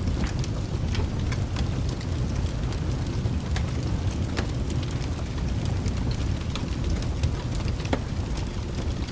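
Rain and crackling fireplace ambience: a steady low rumble of rain and thunder under frequent sharp crackles of burning wood.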